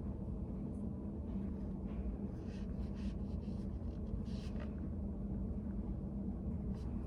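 Steady low hum of a study café's room ambience, with faint scratchy strokes of writing on paper.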